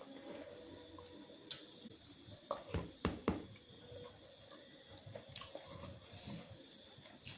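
Quiet eating sounds: soft chewing with a handful of sharp clicks and crunches clustered around the middle.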